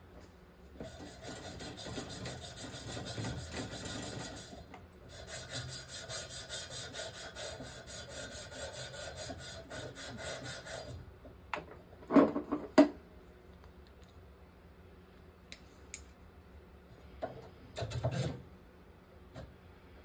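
A hand tool rasping on pipe in fast, even strokes, in two long runs that stop about eleven seconds in, followed by a few loud knocks just after and another clatter near the end.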